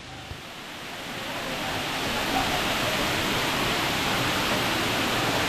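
Steady rushing water of a waterfall, rising in over the first two seconds and then holding even.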